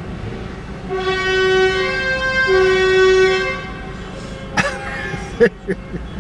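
A vehicle horn sounds two long blasts, starting about a second in, the second following right after the first. A few sharp knocks follow near the end.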